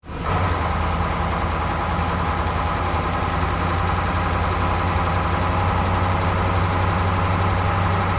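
Truck engine idling steadily, a constant low hum with a higher steady tone above it.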